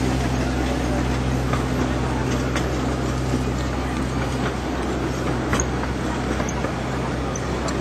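Miniature railway train running away along the track: a steady low drone from the locomotive over the rumble of the coaches' wheels on the rails, easing off slightly, with a few faint clicks.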